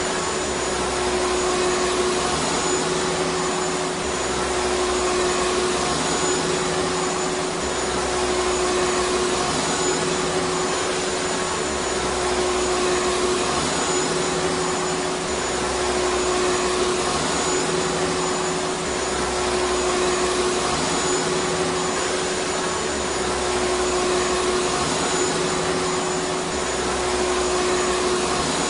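Vacuum cleaner motor running continuously: a steady, even rushing hiss with a constant hum.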